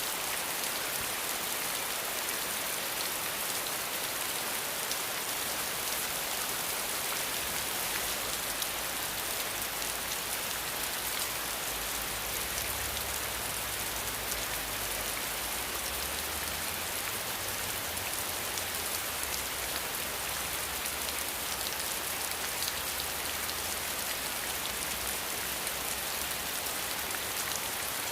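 Rain falling steadily: a dense, even hiss with fine patter of drops. A faint low rumble sits underneath from about eight seconds in until past twenty seconds.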